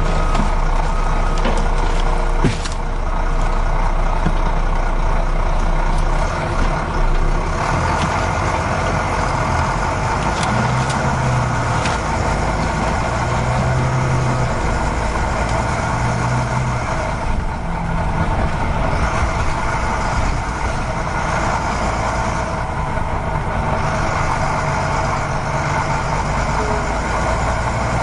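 A truck engine running steadily, its low note rising in short spells now and then.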